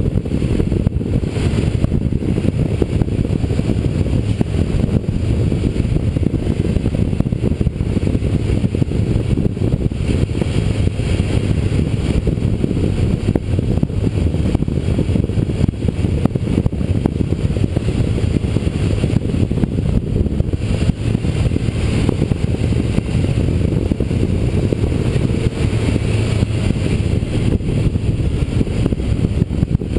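Motorcycle being ridden at a steady pace, its engine rumble mixed with wind rush, heard through the GoPro's housing.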